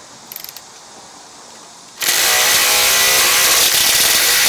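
A few quick ratchet clicks. Then, about two seconds in, a loud motor-driven machine starts abruptly and keeps running steadily.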